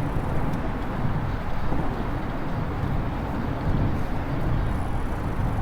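Steady rushing, gusty rumble of wind buffeting the microphone while riding along on an e-bike, with no clear motor whine above it.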